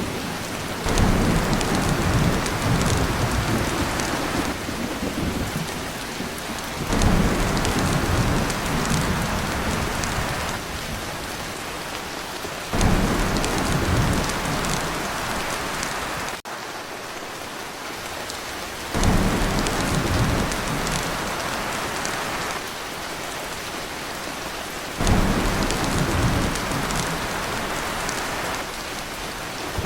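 Heavy rain pouring on a tin roof, with thunder rumbling. A low rumble swells in abruptly about every six seconds, then eases back under the steady rain.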